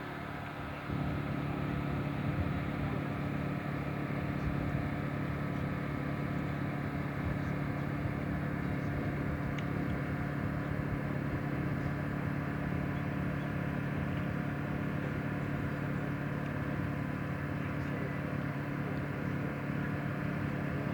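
Steady drone of a large electric R/C model plane's twin motors and propellers in flight, holding an even low hum. It starts about a second in.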